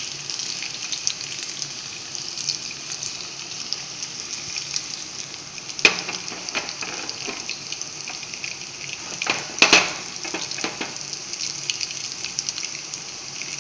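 Potato and semolina fingers sizzling and crackling steadily as they shallow-fry in oil in a frying pan, with a few sharp clicks about six seconds and ten seconds in.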